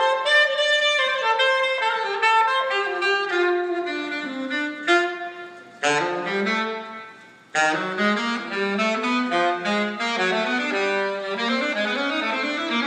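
Saxophone playing a jazzy improvised solo line of quick, changing notes, fading briefly about seven seconds in before carrying on.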